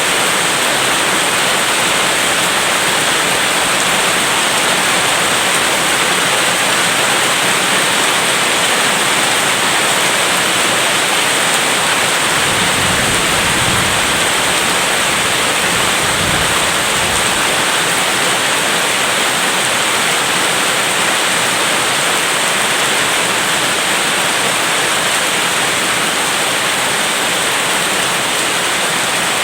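Steady heavy rain, an even rushing hiss. About halfway through come two brief low rumbles of distant thunder.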